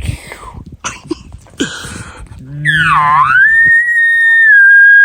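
An elk bugle beginning about two and a half seconds in: a low growl under a whistle that dips, then climbs to a long, high held note and falls away near the end. Before it, rustling and a few clicks.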